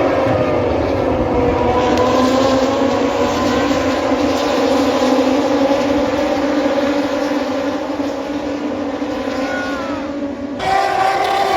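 Racing motorcycle engines running at high revs, a steady drone of several pitched tones that dips slightly at first and then holds. It changes abruptly near the end to another steady engine note.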